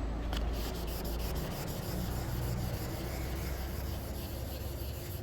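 Hand wet sanding of car paintwork with 2000-grit wet-and-dry paper: a steady rubbing, flatting down bird-dropping etching in the roof's paint. A low hum runs underneath.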